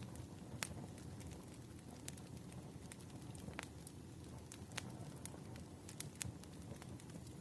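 Wood fire crackling: irregular sharp pops and snaps, a few louder than the rest, over a low steady rumble of burning logs.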